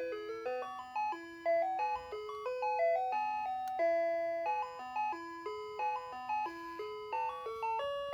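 Ice cream truck's chime playing its jingle: a simple tinkling melody of clear notes stepping up and down, repeating without a break.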